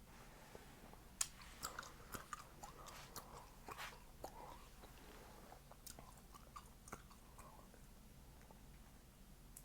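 A person chewing gum close to the microphone: quiet wet smacks and snapping pops, with one sharp pop about a second in. The chewing is busiest in the first half and thins out toward the end.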